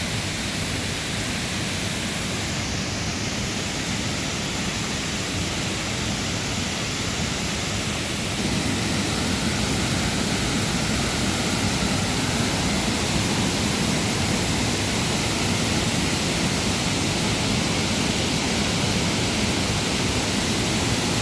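Waterfall rushing: a steady, full noise of falling water that grows a little louder about eight seconds in.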